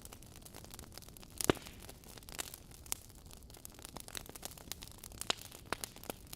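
Wood fire crackling in a fireplace: logs burning with irregular sharp pops and snaps over a soft hiss, one louder pop about a second and a half in.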